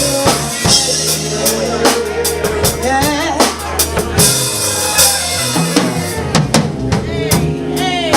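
A live band playing an instrumental passage between sung lines, with a drum kit's kick and snare beating steadily over bass and other pitched instruments.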